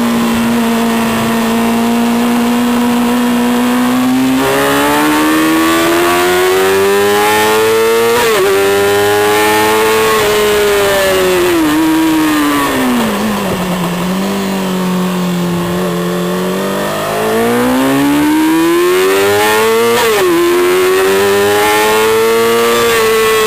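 Race motorcycle's engine heard onboard at racing speed: it holds a steady note through a corner, then climbs under acceleration, with a sharp pitch drop at an upshift about eight seconds in. It falls away to a low steady note as the bike slows for a bend, then climbs hard again with another upshift about twenty seconds in.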